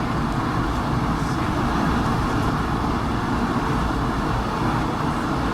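Steady cabin noise of an Airbus A220-300 taxiing after landing: a low, even rumble with the hum of its Pratt & Whitney PW1500G geared turbofans at low power.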